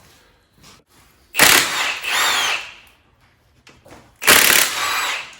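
Handheld power tool run in two short bursts, the first about a second and a half long and the second about a second, each with a faint shifting motor whine.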